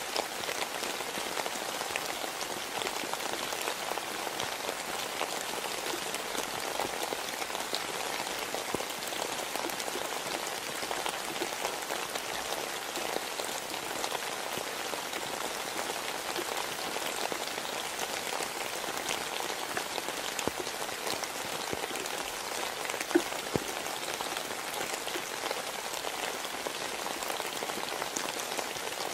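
Steady rain falling, with scattered drops ticking on a hard surface; a couple of sharper drips stand out about three-quarters of the way through.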